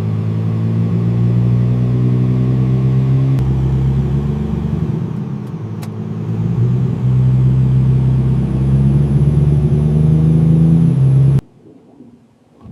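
Diesel engine of a freshly restored semi-truck running with a steady note, easing off a little around the middle and picking up again, then cutting off abruptly near the end.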